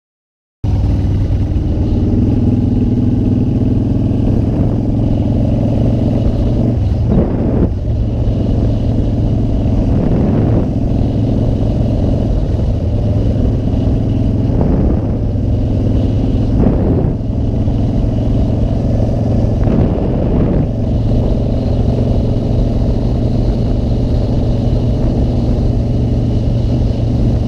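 Motorcycle engine running steadily while riding, its pitch sweeping up and down a handful of times as the rider changes speed and shifts gears.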